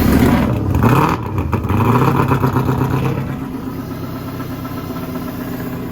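Supercharged engine of a 1000-horsepower police car revving briefly, then settling to a steady idle about three seconds in. It is running with water still being cleared from it after a leaking intercooler water line flooded the engine.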